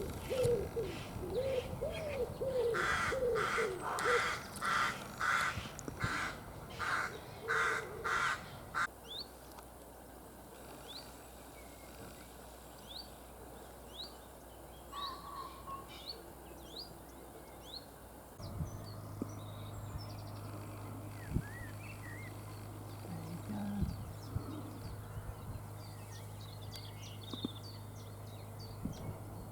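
Crows cawing in a quick series of harsh calls for the first third, then small birds chirping sparsely. About two-thirds of the way through, a steady low hum sets in underneath and carries on.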